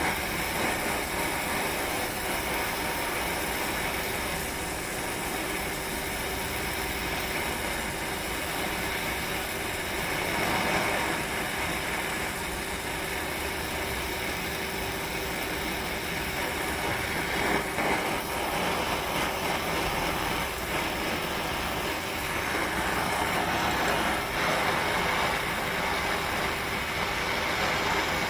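A gas torch flame burning with a steady hiss while it heats a steel brake part so the part can be bent. A few faint knocks come through now and then.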